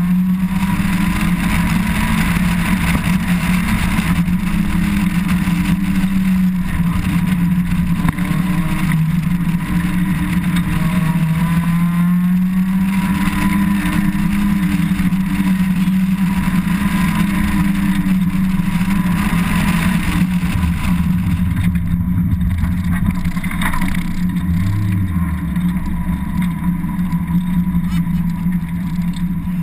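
Mazda Miata's four-cylinder engine pulling hard through an autocross course. Its note rises and dips gently as she accelerates and brakes between cones, with wind noise over the open cockpit. About two-thirds of the way through, the hiss drops away and the engine eases off.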